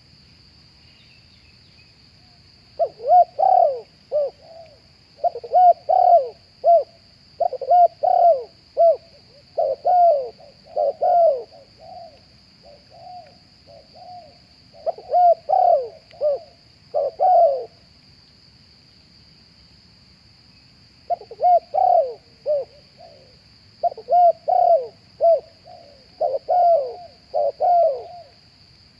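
Spotted dove cooing in repeated phrases of short coos, two long bouts with a few seconds' pause between them, over a steady high insect drone.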